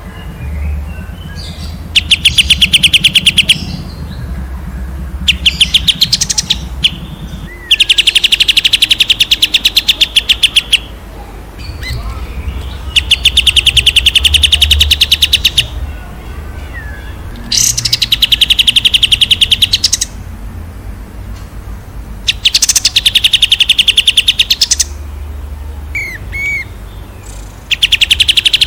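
A songbird repeating a long, fast, even trill of rapid high notes. There are about seven phrases, each one and a half to three seconds long, separated by pauses of a few seconds, with a few short upturned notes between them. A low rumble runs underneath.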